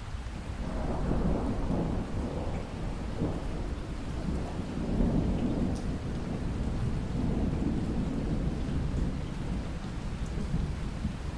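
Thunder rolling over steady rain: a long, low rumble builds about a second in and rumbles on, swelling and fading, above an even hiss of rainfall.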